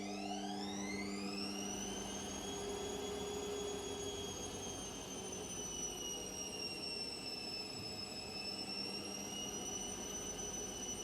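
Washing machine motor whining as the drum speeds up: the whine rises in pitch over the first couple of seconds, then holds fairly steady over a low hum and a rushing noise.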